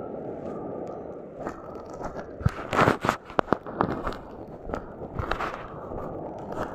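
Footsteps crunching, irregular steps starting about a second and a half in and loudest around three seconds, over a steady rushing background.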